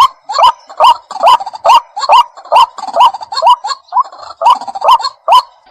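White-breasted waterhen calling: a steady series of short, rising 'kwaak' notes, a little over two a second, with a brief pause near the middle.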